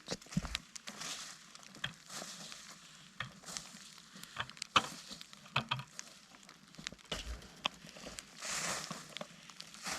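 Rustling and light scraping of sawdust mulch being spread over a garden bed by hand, with many scattered small clicks and a louder rustle near the end.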